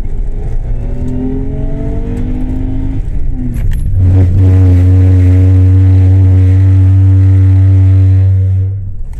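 A car accelerates with its engine rising in pitch, then its rear brakes are applied and give a loud, steady, low droning judder for about five seconds before cutting off near the end. It is the abnormal rear-brake noise being demonstrated, loud enough that the car is hardly fit to drive.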